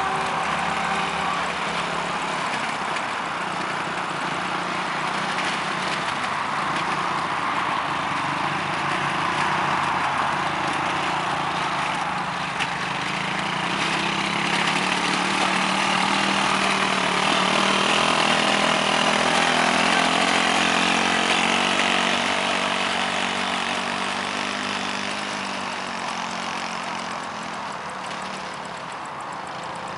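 Quad bike engine running, growing louder through the middle and fading off toward the end.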